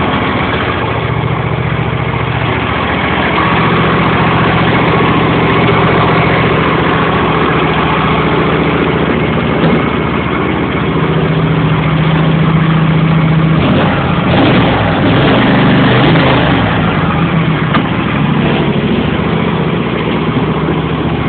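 John Deere L111 lawn tractor's 20 hp Briggs & Stratton V-twin running steadily just after a cold start, sounding healthy, like a new engine. About two-thirds of the way through its note shifts and wavers briefly before settling again.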